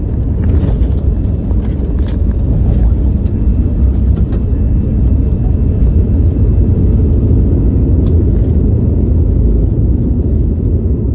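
Cabin noise inside a Boeing 717 airliner during landing: a loud, steady deep rumble from the engines, airflow and landing gear, with a few light rattles from the cabin.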